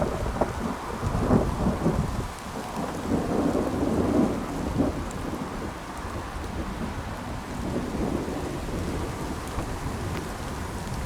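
Continuous low rumbling noise, heaviest in the low end, swelling and fading in waves.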